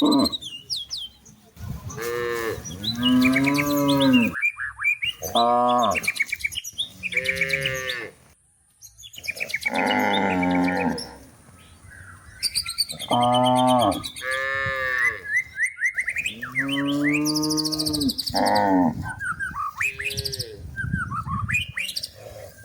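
Cattle mooing over and over, about eight calls one after another with short pauses between, while small birds chirp faintly.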